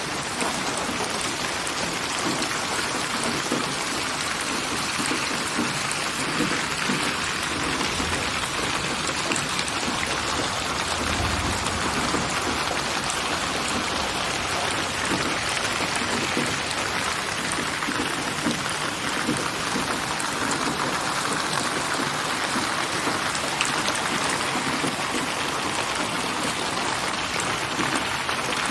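Steady rain falling, a dense patter of raindrops on surfaces.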